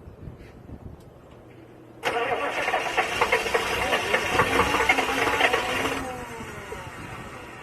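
Diesel engine cold-starting: loud clattering cranking and firing begins suddenly about two seconds in, then eases off after about four seconds with a falling whine.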